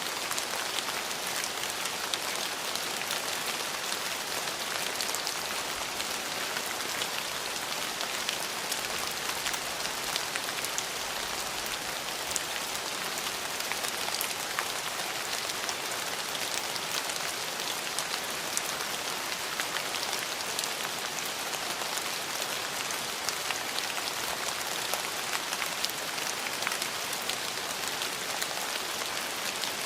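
Steady rain falling, an even hiss with many small drop ticks and no change in strength.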